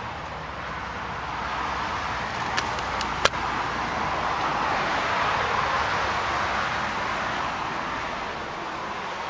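Road traffic noise, a steady rush that swells and fades as vehicles pass, with a few sharp clicks about three seconds in.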